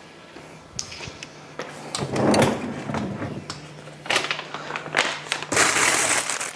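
Food packages and containers being handled and taken out of a fridge: scattered knocks and clunks, then rustling of plastic bags growing louder over the last couple of seconds.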